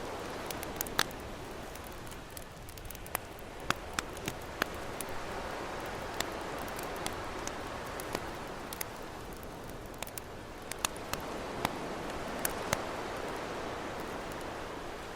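Campfire crackling with sharp, irregular pops and snaps over the steady wash of ocean waves, which swell and ease every few seconds.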